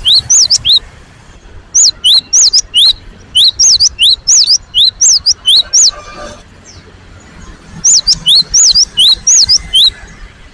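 Cinereous tit (gelatik batu) calling: rapid, loud, sharp high notes in three runs, with pauses about a second in and again from about 6 to 8 seconds in.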